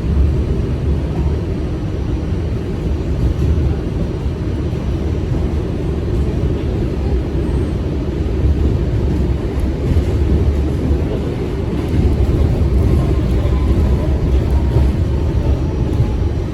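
New York City subway car running between stations, heard from inside the car: a steady, loud rumble of wheels on rails.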